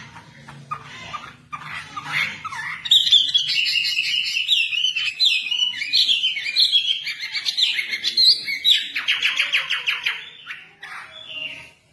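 Wambi songbird singing a rapid, varied chattering song. It grows loud about three seconds in and ends in a quick run of repeated notes.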